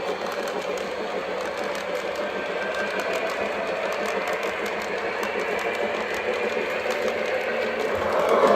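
Lionel O-gauge model train rolling on its track: a steady clatter of wheels and running gear with rapid fine clicks, quieter through the middle and growing louder near the end.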